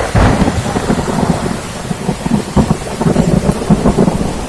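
Thunderstorm: heavy rain with rumbling thunder, coming in suddenly at the start and crackling throughout.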